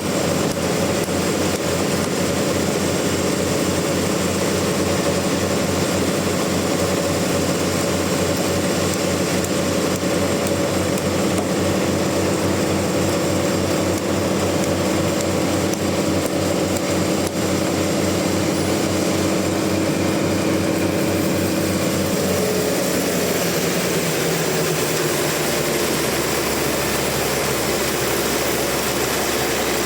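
Sawmill engine running steadily at speed, then slowing about two-thirds of the way through, its pitch falling into a lower, steady drone.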